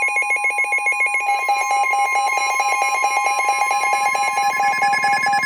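NOAA Weather Radio warning alarm: a steady high alert tone near 1 kHz comes on at the start and holds, over a fast-pulsing electronic alarm beep, signalling that another warning broadcast is about to follow.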